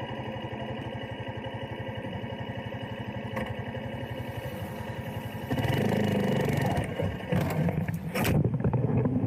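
Motorcycle engine running steadily, getting louder a little over halfway through, with a few sharp knocks near the end.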